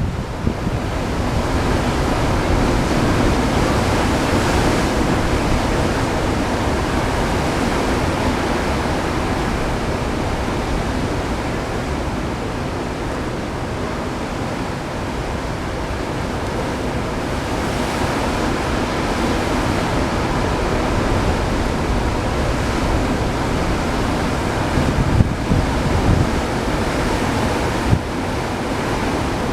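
Heavy storm surf from a typhoon swell, breaking and surging on a rocky shore in a steady roar. Wind buffets the microphone, with a few stronger gusts near the end.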